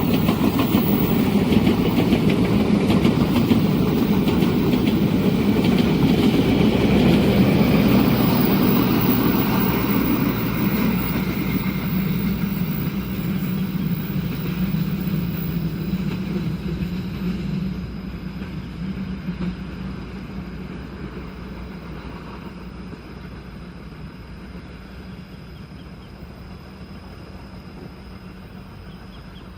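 A train running past on the rails, a dense steady rumble that fades away over the second half as it recedes.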